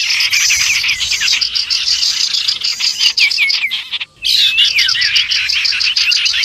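Bird-lure recording of cipow (common iora) calls mixed with other small birds: a dense, loud chorus of rapid chirping and chatter with short whistled notes that swoop up and down. The track drops out briefly about four seconds in, then resumes.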